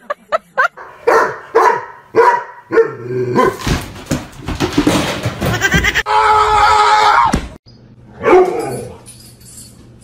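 A dog yelping and barking in short calls about twice a second, then louder, longer animal cries, with a drawn-out falling call about eight seconds in.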